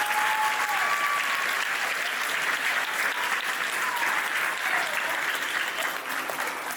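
Audience applauding, with a high held cheer over it in the first second or so; the clapping begins to die down near the end.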